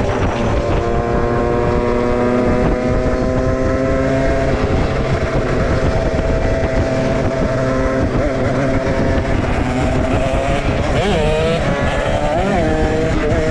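Motorcycle engine running at a steady cruising speed, its pitch drifting slowly, with wind rumbling on the microphone. Near the end the revs rise and fall quickly a couple of times.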